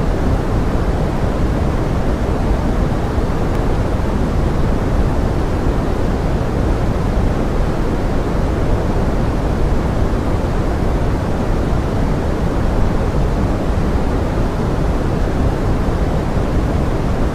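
Steady pink noise: an even, rain-like hiss weighted toward the low end, unchanging throughout, with no separate drops or other sounds standing out.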